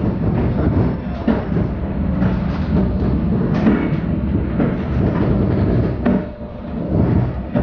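Train running, heard on board: a steady rumble of wheels on rail with scattered knocks from the track, dipping briefly about six seconds in.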